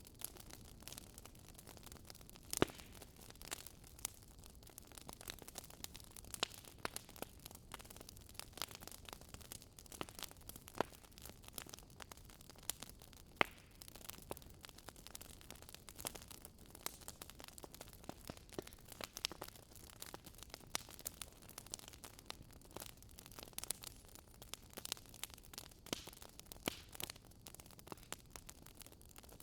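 Wood fire burning in a fireplace, crackling with irregular sharp pops and snaps over a soft, steady hiss.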